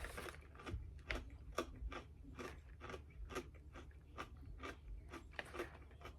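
A person chewing a mouthful of dry Catalina Crunch keto Cinnamon Toast cereal squares, with crisp crunches about twice a second.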